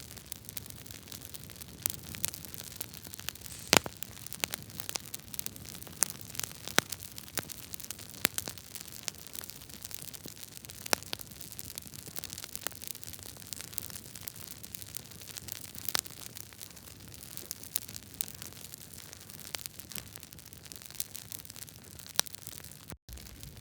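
Wood fire in a fireplace crackling: irregular sharp pops and snaps over a steady hiss of burning logs, with one louder pop about four seconds in. The sound cuts out for an instant near the end.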